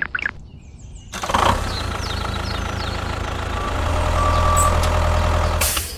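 An engine starts running steadily about a second in, with a low hum that gets a little louder partway through, then cuts off just before the end.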